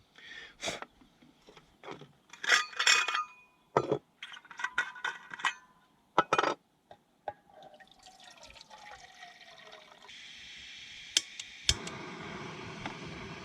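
Clinks and knocks of dishes and glassware being handled, a string of short sharp taps, then a steady rushing hiss that comes in partway through and gets louder near the end.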